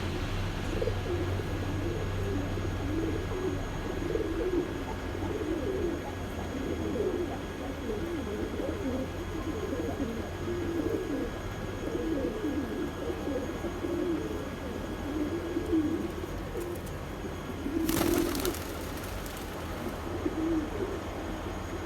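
Domestic pigeons cooing continuously, several birds overlapping, over a steady low hum. A short burst of noise comes near the end.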